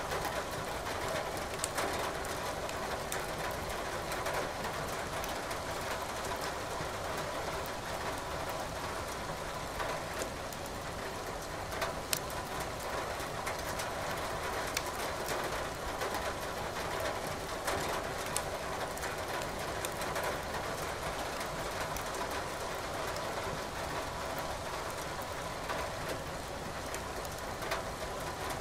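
Steady rain hiss mixed with a wood fire crackling in a fireplace, with sharp pops now and then, the loudest about twelve seconds in.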